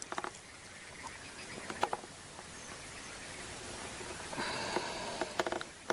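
A steady outdoor hiss, with a short pulsed, buzzy croak of a frog about four and a half seconds in, lasting over a second.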